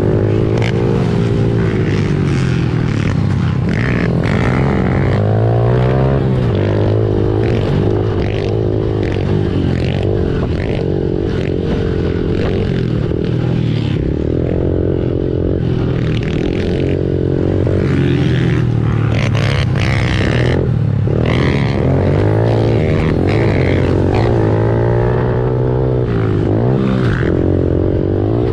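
Honda CRF110 pit bike's small single-cylinder four-stroke engine running hard, its pitch rising and falling over and over as the throttle opens and closes.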